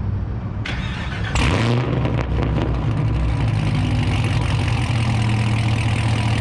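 Straight-piped exhaust of a Camaro ZL1's supercharged 6.2 L V8 running loud through 2-inch long-tube headers. It flares up sharply about a second and a half in, then settles into a steady, deep idle.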